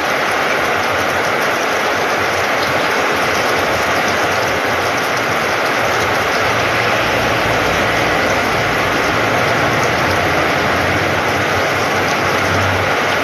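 Heavy rain pouring down steadily, pattering on a corrugated metal roof and splashing into puddled ground, a loud even hiss.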